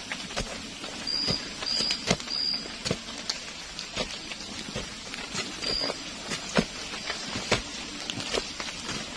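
Rain falling steadily, with irregular sharp taps of drops hitting the shelter. A short, high piping call sounds three times in quick succession about a second in, and once more later.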